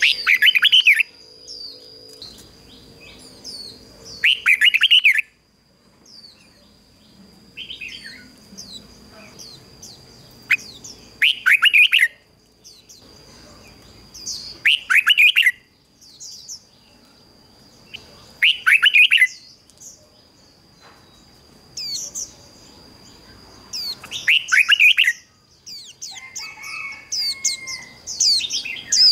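Red-whiskered bulbul singing short, loud, quick phrases, repeated every three to four seconds, with softer chirps in between. A thin steady high whine runs underneath.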